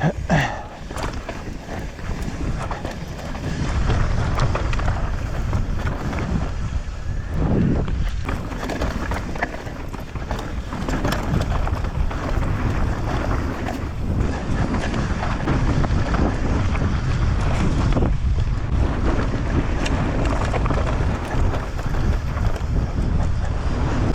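Mountain bike descending a rough trail: tyres rolling over dirt and rock with irregular rattling and clattering from the bike, and wind buffeting the microphone.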